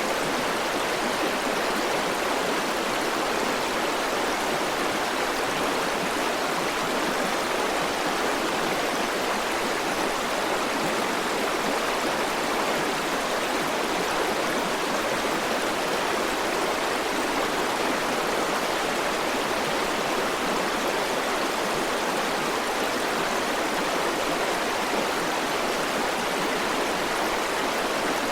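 River water flowing over rocks: a steady, even rushing with no changes or distinct splashes.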